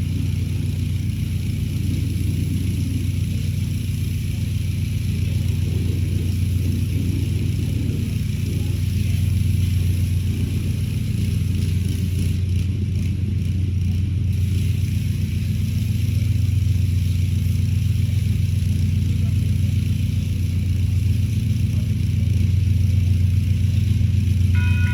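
Portable generator engine running steadily, a constant low drone. Right at the end an electronic railroad crossing bell starts ringing.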